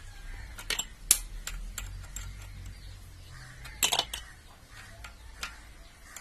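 Sharp metal clicks and clinks of a spanner and valve-adjusting tool on a motorcycle rocker-arm adjuster as the locknut is tightened after setting the valve clearance. The clicks come irregularly, the loudest about a second in and again near four seconds in.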